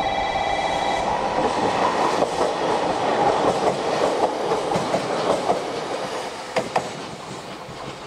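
A train running along the track. A steady whine stops about a second in, leaving a rumble with a few wheel clicks over rail joints near the end, and the sound fades as the train moves away.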